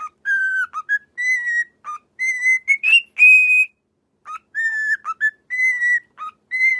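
Parrot whistling a short tune of clear, mostly rising notes, then starting the same phrase over about four seconds in.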